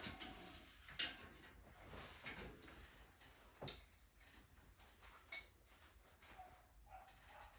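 Faint, scattered metallic clinks and light knocks, a few over several seconds: tools and hardware being handled during a garage door torsion spring installation.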